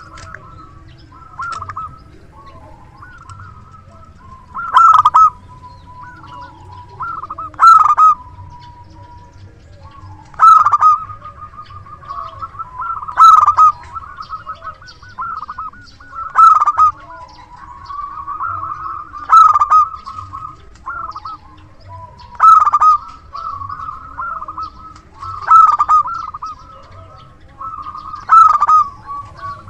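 Local zebra dove (perkutut) cooing without pause in a loud, prolific song, with a louder phrase about every three seconds; a call of the kind played as a lure to draw in wild zebra doves.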